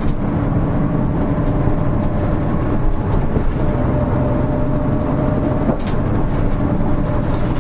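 Interior sound of a Hino Rainbow HR city bus (KL-HR1JNEE) running on the road, its diesel engine droning steadily. A faint high whine comes in about halfway through, along with a few light clicks.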